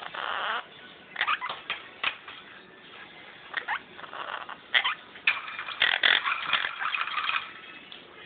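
A pet bird making a run of short, harsh calls and squawks, scattered at first and coming thicker and louder from about five seconds in.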